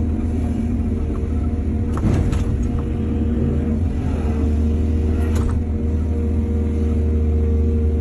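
Excavator engine running steadily at a constant pitch. There is a brief clatter about two seconds in and another a little past five seconds.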